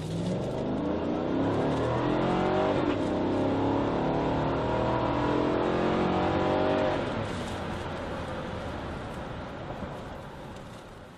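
2015 Cadillac Escalade's 6.2-liter V-8 accelerating hard from a near stop, heard from inside the cabin. The engine pitch climbs, drops once about three seconds in as the six-speed automatic upshifts, and climbs again. About seven seconds in, near 60 mph, the throttle is lifted and the engine falls away and fades.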